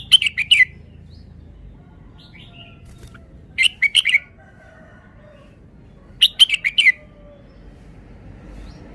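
Red-whiskered bulbul singing: three short, loud phrases of several quick whistled notes, about three seconds apart.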